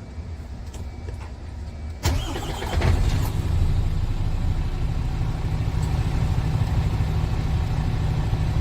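MAN TGS 41.400 tipper truck's D2066 six-cylinder diesel engine starting about two seconds in, then running at a steady idle.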